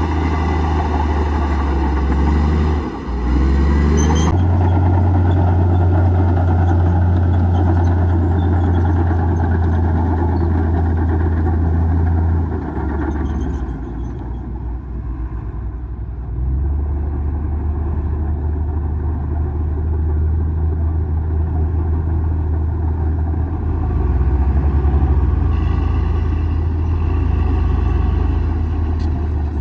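Komatsu D58E bulldozer's diesel engine running loud and steady while working, easing off for a few seconds about halfway through and then picking up again.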